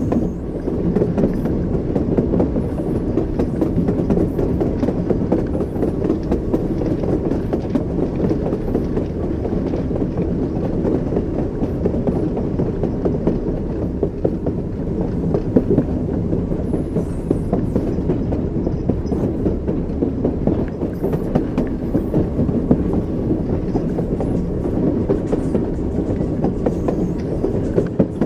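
Train wheels running over rail joints: a steady low rumble of a moving railway carriage with a rattling clickety-clack, for sleep.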